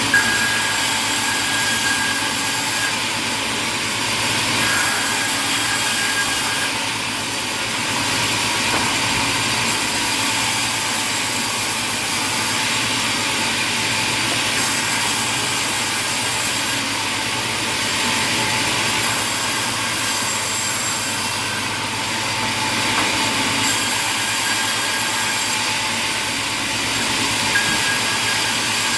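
Sawmill machinery running: a steady, even saw and machine noise, mostly high-pitched, with a few faint steady tones through it.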